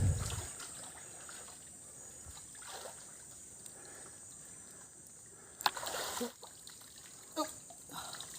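River water trickling and splashing. A heavy low thump right at the start, then a few short sharp splashes or knocks about two-thirds of the way through.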